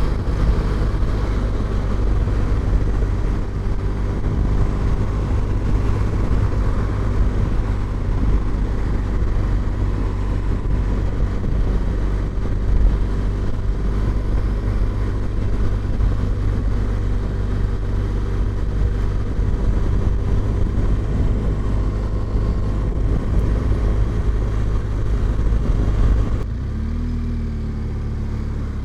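Motorcycle on the move, its engine running under heavy, steady wind rumble on the microphone. About 26 seconds in, the wind rumble drops and the engine note shows more plainly.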